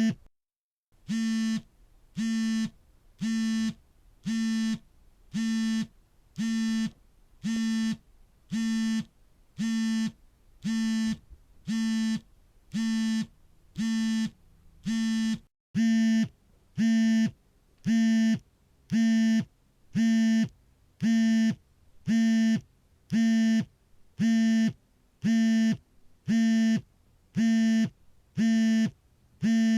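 Smartphone vibration motor buzzing in repeated pulses for an incoming call, about one buzz a second, each about half a second long. The buzz is a steady low hum with a rattling edge, and breaks off briefly twice.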